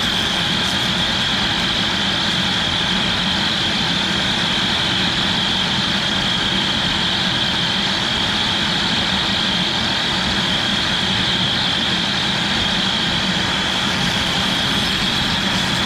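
A Onefinity CNC machine's router spindle running at speed while cutting a carving test in PVC: a steady, high-pitched whine over a constant rushing noise.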